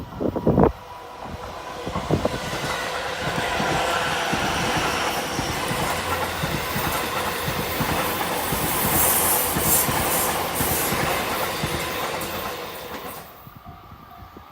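Electric train passing close by on the Chuo Line, the rolling noise of its wheels on the rails swelling up over a couple of seconds, holding, then dying away about 13 seconds in. A few dull thumps come in the first second.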